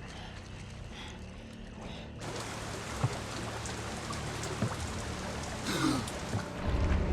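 Rain and trickling, running water over a low steady drone; the hiss of the rain sets in about two seconds in. A sharp knock comes about three seconds in, and a brief falling, voice-like sound near the end.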